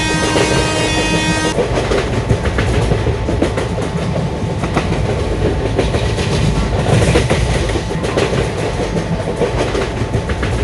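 A train horn sounds as a chord of steady tones and cuts off about a second and a half in. It gives way to the continuous rumble and clickety-clack of LHB passenger coaches' wheels running over the rails.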